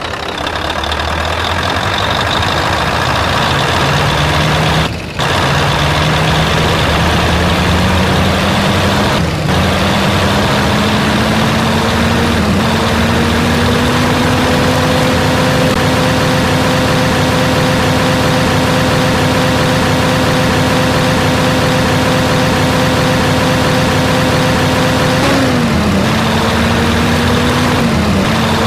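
Scania truck's diesel engine pulling up through the gears, its pitch climbing in steps with a short dip at each of three shifts. It then holds a steady cruising pitch before dropping off twice near the end as it slows or shifts down.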